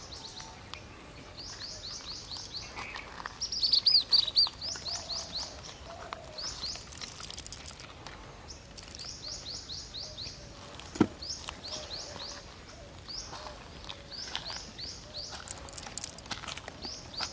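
Small birds chirping in runs of quick, high, falling notes, several a second, loudest about four seconds in. A single sharp click about eleven seconds in.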